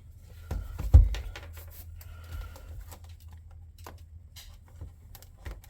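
A cardboard model box being handled and opened by hand: scattered light clicks and rustles, with a dull thump about a second in.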